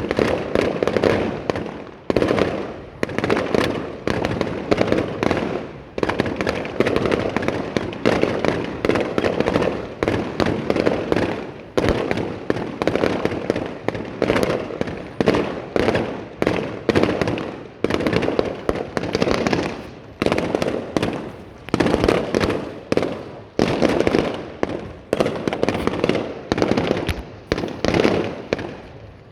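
Fireworks display in full barrage: aerial shells bursting in quick succession, several sharp bangs a second, each trailing off before the next.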